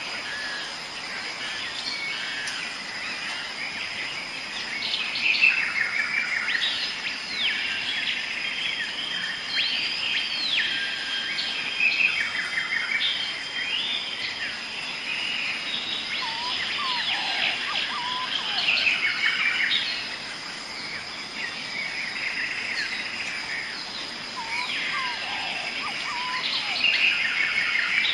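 Several birds singing and calling in a steady chorus of short chirps, sweeps and trills, over a continuous high, even insect drone. A few lower calls join in around the middle and again near the end.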